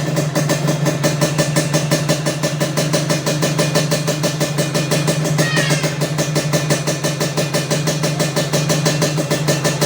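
Yamaha Touch 125 scooter engine idling steadily through an aftermarket stainless racing exhaust with a carbon silencer, giving an even, rapid exhaust pulse. A brief high chirp sounds about five and a half seconds in.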